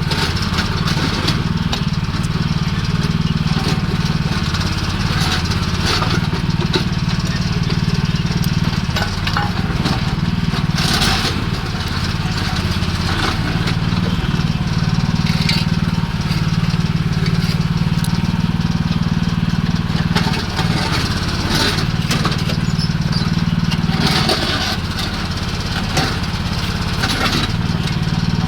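Small excavator's engine running steadily, with irregular knocks and scrapes over it.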